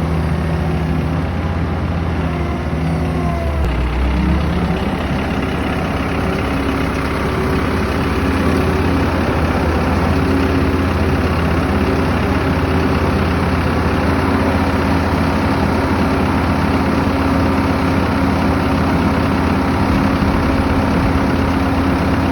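Skid steer loader engine running steadily. Its engine note shifts about four seconds in, then holds steady.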